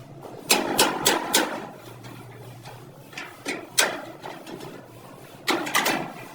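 Irregular knocks and clatter: a quick run of sharp strikes about half a second in, a few single ones in the middle, and another cluster near the end, over a faint steady low hum.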